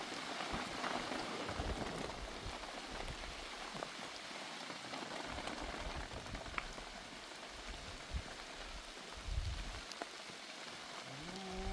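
Steady rain falling, an even hiss, with a few brief low rumbles.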